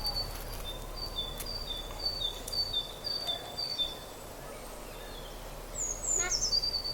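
A small bird calling over steady background noise: a repeated high two-note call, the notes alternating between two pitches about twice a second. The calls stop partway through, and near the end a few quick falling notes are heard.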